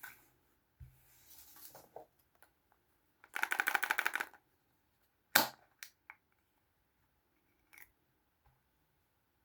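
Small plastic toys being handled: a soft rustle, then a rapid run of clicks lasting about a second, then a single sharp click, the loudest sound, and a few light taps.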